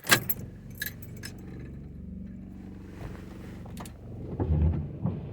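Keys jangling and a sharp click as the 1983 Camaro's ignition key is turned on, followed by a steady electric hum from the windshield wiper motor running: the battery still has charge after a month of sitting.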